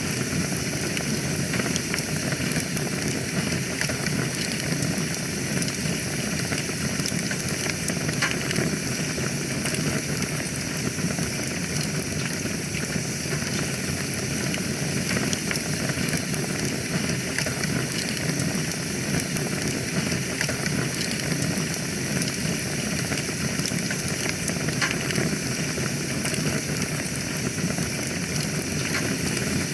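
Wood fire burning in a fireplace: a steady hiss of flames with a few faint crackles and pops now and then.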